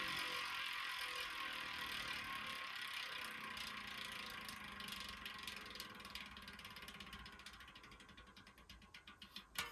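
DT Swiss 240 rear hub's star-ratchet freehub buzzing as the spun wheel coasts, fading steadily as the wheel slows. Near the end the buzz breaks into separate ticks, then there is a short louder rattle.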